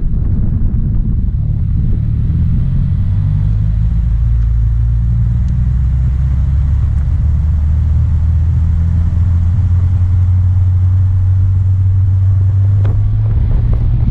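A Subaru's flat-four engine and exhaust pulling away, then settling into a steady low drone about three seconds in as the car cruises. It is heard close up from a camera mounted on the car's side.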